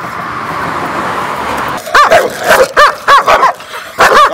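A dog barking loudly in quick succession, about three barks a second, starting about two seconds in. A steady rushing noise comes before the barks.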